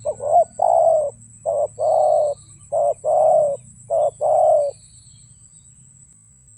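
Spotted dove cooing: four phrases, each a short note followed by a longer drawn-out coo, ending a little before five seconds in.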